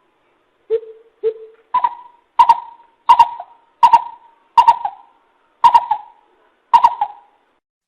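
Greater coucal calling: a slow series of hoots, about one every two-thirds of a second. The first two are lower in pitch than the rest, and each has a short echoing tail.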